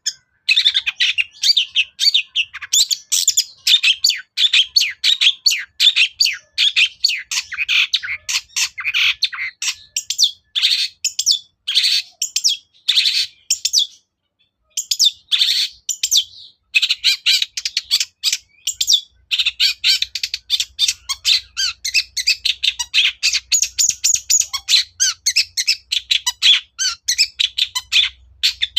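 Long-tailed shrike (cendet) singing a fast, dense run of short, high chirps and chattering notes, with only a brief pause about halfway through.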